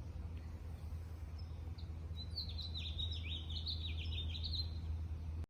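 A small songbird chirping: a couple of single high chirps, then from about two seconds in a quick run of short downward-sliding chirps lasting a couple of seconds, over a steady low hum.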